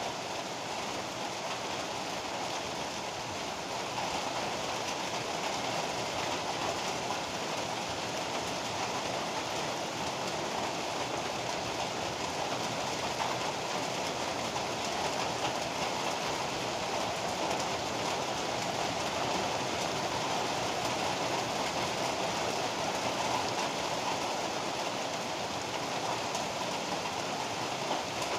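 Heavy rain falling in a steady, even downpour, with no thunder claps standing out; it grows slightly louder about four seconds in.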